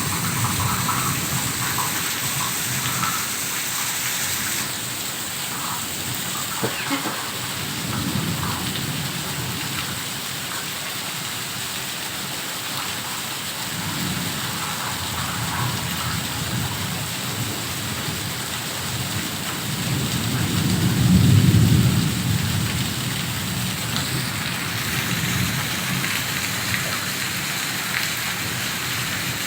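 Heavy rain pouring steadily. Deep low rumbles swell up now and then, the loudest about two-thirds of the way in.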